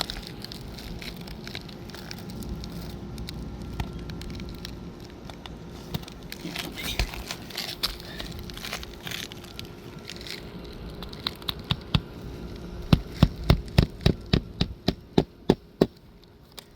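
Scraping and rustling on asphalt shingles, then near the end a quick run of about a dozen sharp hammer blows, roughly two or three a second, driving a roofing nail.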